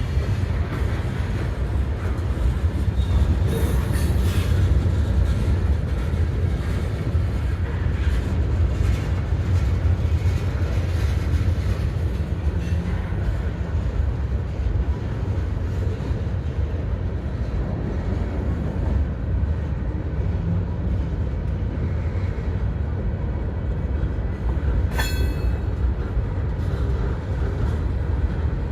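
Freight train cars rolling past on the rails in a steady, low rumble. About 25 seconds in there is a brief, sharp, high-pitched squeal.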